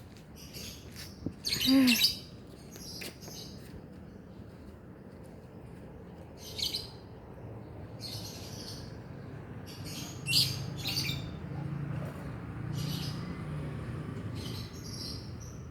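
Lovebirds giving short, shrill chirps in scattered bursts, the loudest about two seconds in.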